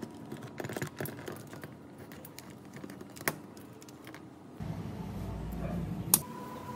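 Light clicks and taps of hands handling a chainsaw's plastic housing and small parts while fitting wiring, with a sharp click near the end the loudest. A low hum joins in for about a second and a half late on.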